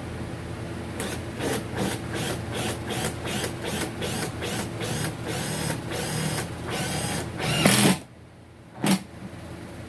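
A run of short mechanical strokes, about three a second, growing longer and louder toward the end, over a steady hum. The hum cuts out suddenly about eight seconds in, and one last short stroke follows.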